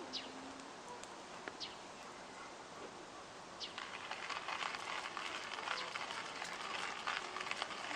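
Wild birds giving a few short, falling chirps over a steady outdoor hiss; about halfway in, a dense crackling sets in and keeps on.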